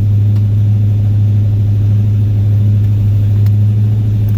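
Oldsmobile 455 Rocket V8 idling steadily, heard from inside the car, with a few faint clicks.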